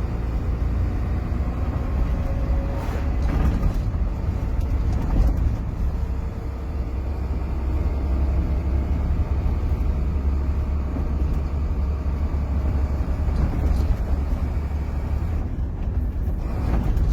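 Sinotruk HOWO truck's diesel engine running as the truck is driven and shifted up through the gears, heard from inside the cab as a deep, steady rumble.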